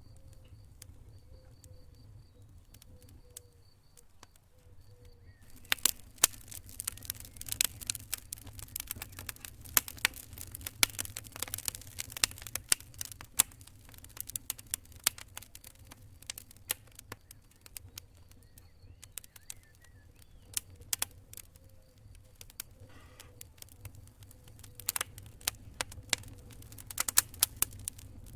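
Campfire crackling: sharp pops and snaps of burning wood over a low steady rumble. Sparse for the first few seconds, then dense and continuous from about five seconds in.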